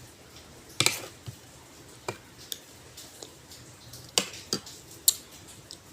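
Dishes and eating utensils handled, giving about six irregular sharp clinks and knocks over a faint steady hiss.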